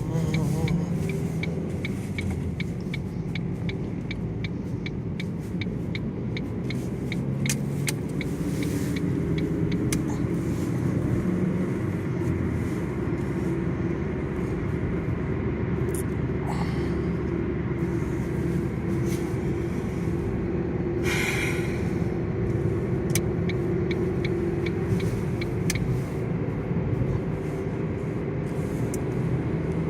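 Steady engine and road rumble inside a moving car's cabin. A regular ticking runs through the first nine seconds or so, and a short hiss comes about two-thirds of the way through.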